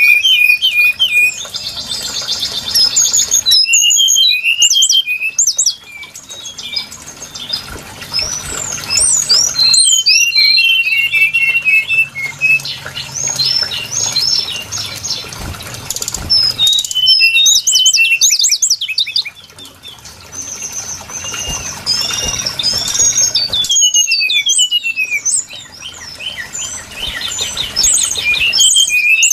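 Brown-chested jungle flycatcher song and calls on a looped bird-lure recording: rapid chirps, trills and falling whistles. The sound cuts off abruptly and starts again about every six to seven seconds.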